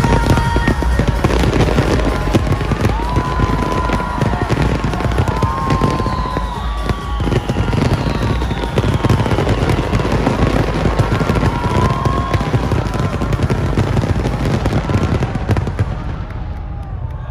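Fireworks display going off without a break: dense bangs and crackling over a deep rumble, with music playing alongside. It eases off slightly near the end.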